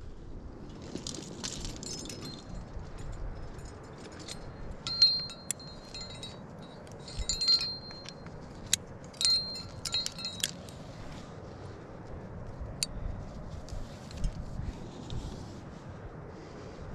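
Metal climbing gear, carabiners and hardware on a harness rack, clinking and jangling as the climber moves, in several bunches about 5, 7.5 and 10 seconds in, with softer rustling between.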